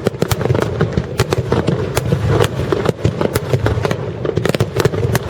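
Aerial fireworks bursting in rapid succession: many sharp cracks, several a second, over a continuous low rumble of explosions.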